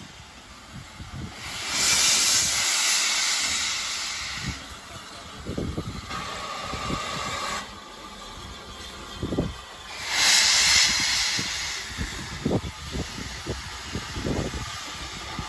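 Steam locomotive venting steam in two loud hissing bursts, about two seconds in and again about ten seconds in, with a quieter hiss between them. Irregular low thumps of wind buffeting the microphone run underneath.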